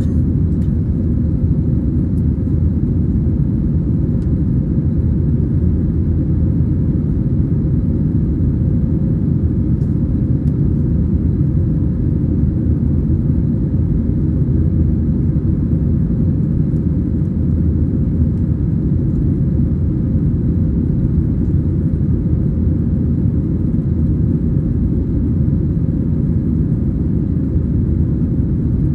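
Steady cabin rumble inside an Airbus A320-214, heard from a window seat: its CFM56 engines and airflow running continuously, with no change in pitch or level.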